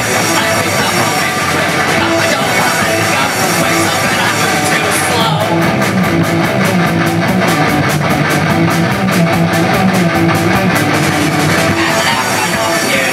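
Loud rock music with guitar and drums. A fast, even beat comes in about five seconds in and runs for several seconds.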